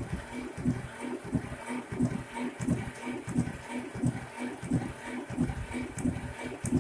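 Shenniu 4/25 compact tractor's diesel engine being cranked over by its starter with the compression release engaged, an even chugging rhythm of about three pulses a second, to build heat for a cold start.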